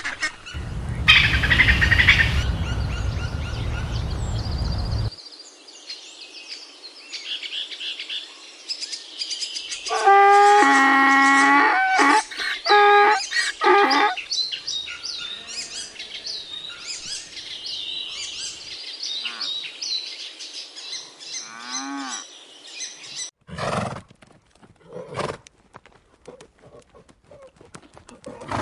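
A run of animal calls: a loud, noisy call over a low rumble for the first few seconds, then birds chirping high and thin for much of the stretch, with a series of loud pitched calls from about ten to fourteen seconds in, and short scattered calls near the end.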